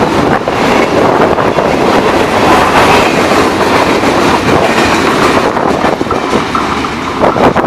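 Freight train of open hopper cars rolling past at close range, its steel wheels running loudly on the rails. The sound thins a little over the last couple of seconds as the cars draw away.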